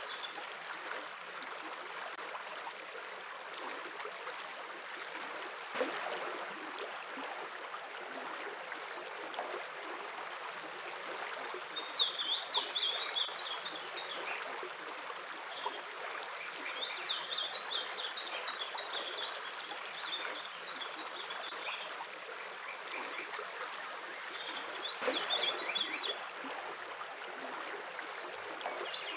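Stream water running steadily, with small birds chirping in quick trills now and then, most clearly about twelve seconds in, again around seventeen to twenty seconds, and near the end.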